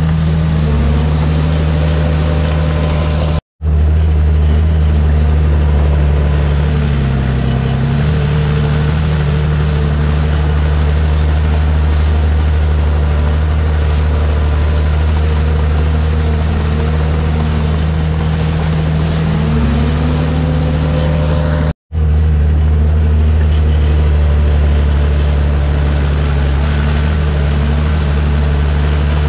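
Komatsu D51PX bulldozer's diesel engine running steadily, its low note sagging briefly a few times as it takes load. The sound drops out for an instant twice.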